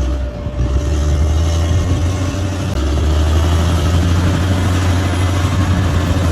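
Large crawler bulldozer's diesel engine running steadily, a deep, even drone.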